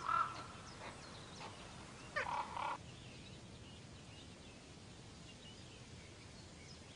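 Raven nestlings begging at the nest with harsh, raspy calls: one call right at the start and a louder one about two seconds in, then only faint background sound.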